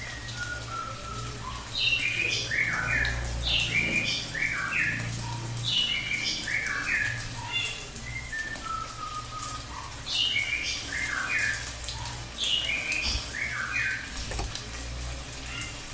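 A songbird singing a repeated phrase of quick, clear notes that step down in pitch, the phrase coming back about every four seconds. A steady low hum and a faint hiss run underneath.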